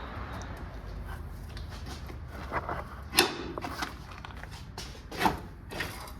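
A few scattered metallic knocks and clanks from hand tools and bolts during work on the engine's bell housing bolts. The loudest knock comes about three seconds in.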